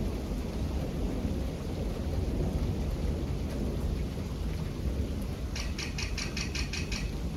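Steady rain with a low rumble of thunder. About five and a half seconds in, a quick run of about eight high ticks lasts roughly a second and a half.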